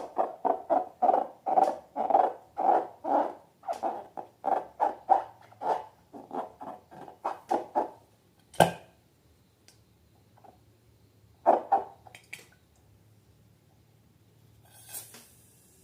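Slime being squeezed and worked by hand: a run of wet squelches, about three a second, for some eight seconds, then a sharp snap and a few single squelches.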